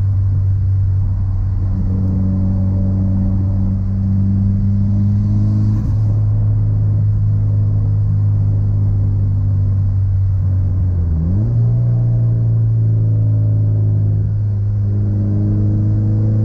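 Mitsubishi Lancer Evolution's turbocharged four-cylinder engine pulling the car along at steady revs. About eleven seconds in, the engine note dips briefly, then climbs to a higher steady pitch and holds there.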